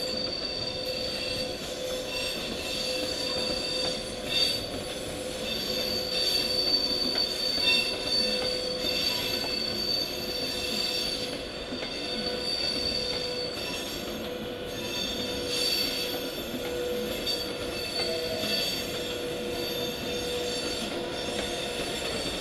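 EP2K DC electric locomotive and its passenger train moving slowly at departure, with a steady high-pitched wheel squeal from the train over the station tracks and a steady hum underneath.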